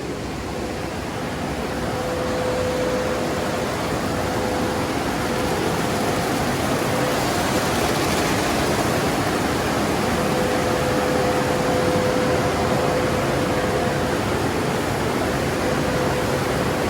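Automatic car wash equipment running: a steady rushing noise with a faint hum that comes and goes.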